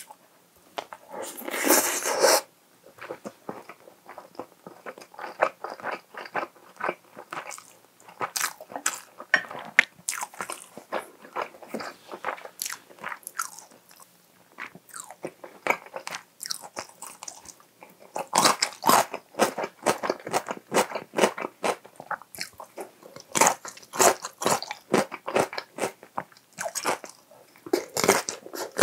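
Close-miked eating sounds: chewing a spoonful of chicken-and-egg rice bowl, then crisp crunching of seasoned cucumber salad. The crunches come in fast runs in the second half.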